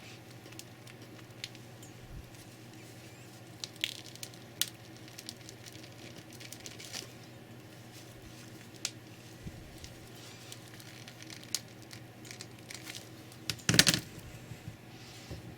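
Scattered small clicks and crackles of cracked glass and plastic from a smashed Samsung Galaxy S2 phone being handled, with a louder clatter of several knocks near the end.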